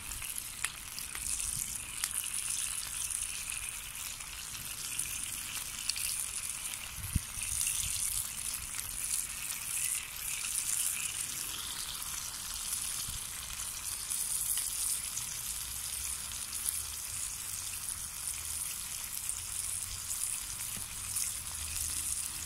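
Swedish torch (upright split-log fire) burning with a steady hiss and scattered sharp crackles.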